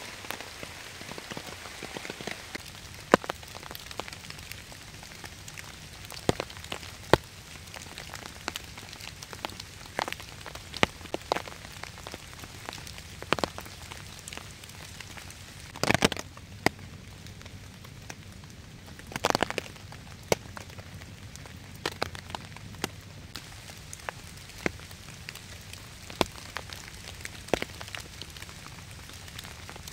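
Steady rain falling, with scattered sharp clicks and pops over it every second or two, two louder ones near the middle.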